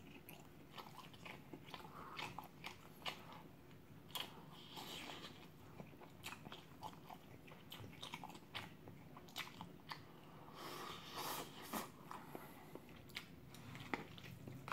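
A person chewing a mouthful of grilled Spam close to the microphone, with many short clicks scattered through it.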